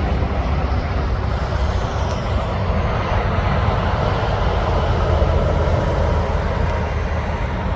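Passing road traffic: a steady, deep engine rumble with tyre and road noise that swells about halfway through and eases off near the end.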